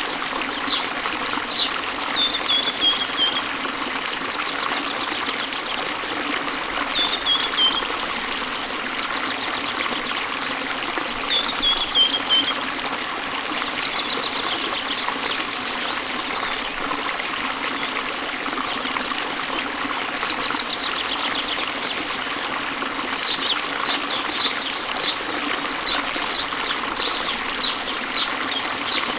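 A waterfall's water running steadily, with small songbirds chirping over it: a few short falling trills in the first half and a quick run of chirps near the end.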